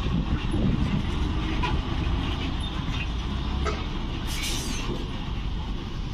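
Heavy truck diesel engines running with a steady low rumble and scattered knocks, and a short hiss about four and a half seconds in.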